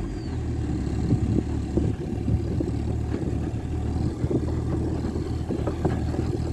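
Engine of a Volkswagen Santana heavily loaded with firewood, running steadily as the car drives on a dirt road, with irregular knocks and rattles throughout.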